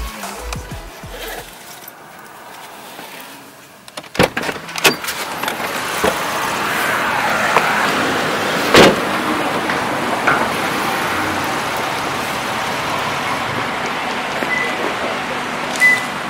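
A car: a couple of sharp knocks about four seconds in, then a steady hiss of road noise from the car on the move, with one more knock partway through.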